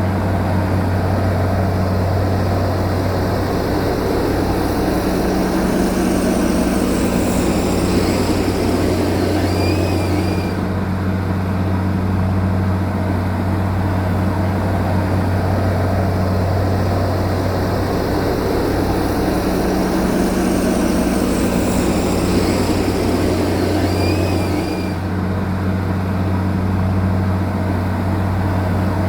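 A bulldozer's heavy diesel engine running steadily with a deep, constant drone. Twice a broader working noise builds over several seconds and then cuts off abruptly.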